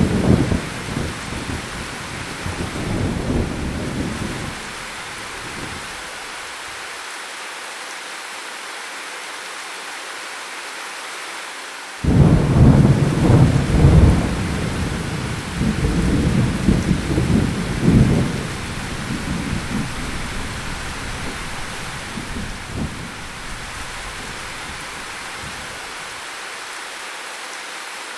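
Steady rain with thunder: a rumble dies away over the first few seconds, then a sudden loud thunderclap about twelve seconds in rolls on in waves for about ten seconds before fading back to the rain.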